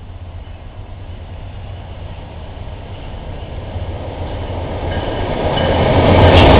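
Diesel freight locomotive approaching: a low engine rumble growing steadily louder, with faint high tones coming in near the end.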